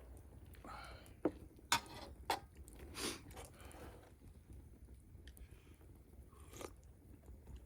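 Close-up eating sounds: chewing and mouth noises, with a few sharp clicks in the first few seconds.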